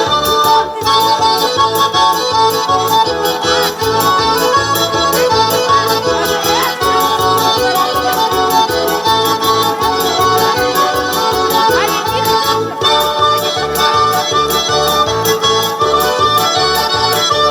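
Accordion-led folk dance music with a steady beat, the accompaniment for a Mari dance.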